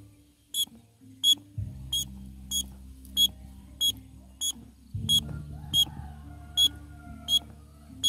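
Small bamboo bird whistle blown as a sparrow lure: about a dozen short, high, identical peeps, evenly spaced about one and a half per second.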